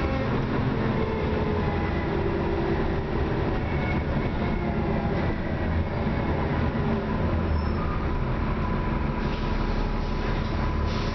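Dennis Trident double-decker bus running underway: a steady low engine rumble with whining drivetrain tones that drift up and down in pitch. The uploader calls this worn bus clapped out, with a weird noise under acceleration.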